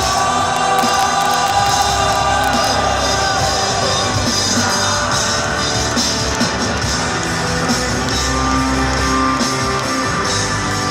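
Rock band playing live in a large arena, recorded from the audience: a loud, full band sound with wavering voices singing over the first four seconds or so, then mainly the instruments.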